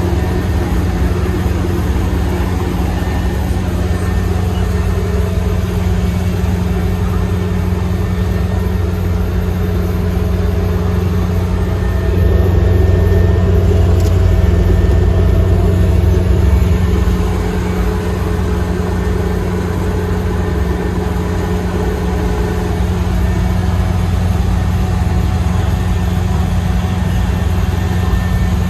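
Kubota ER470 combine harvester running steadily with a constant engine drone, growing a little louder for a few seconds about halfway through.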